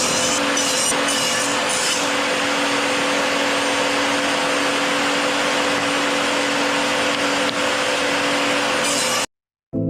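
Electric woodworking power tool motor running steadily with a constant whine, with a rhythmic rasping of wood being worked in the first two seconds; it cuts off abruptly near the end.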